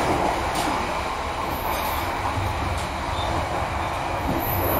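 Passenger train running along the line, heard from inside the carriage beside the door: a steady rumble of the wheels on the rails.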